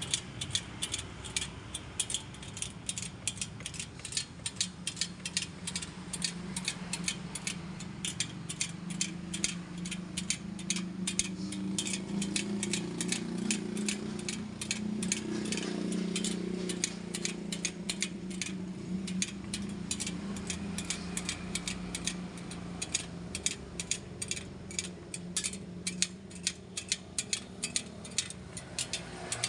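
Rapid, even mechanical ticking, several clicks a second, over a low steady hum that swells around the middle.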